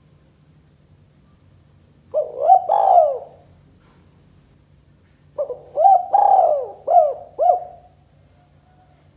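Spotted dove (tekukur) cooing in the 'kuk 2' style used as a lure call: a short phrase about two seconds in, then a longer phrase of several arched coos from about five and a half to eight seconds.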